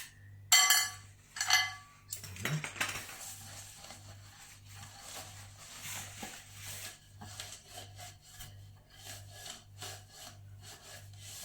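A wet fibre wipe rubbed and scrubbed over a microwave oven's surfaces, with two short ringing clatters about half a second and a second and a half in, then steady scratchy rubbing.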